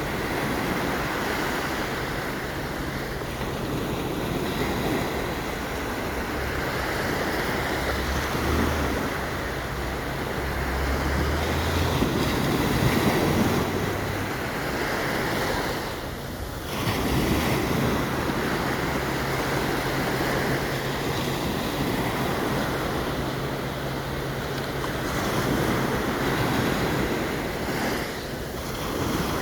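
Sea surf washing onto a sandy beach: a continuous rush of breaking waves that swells and eases every few seconds, with wind buffeting the microphone.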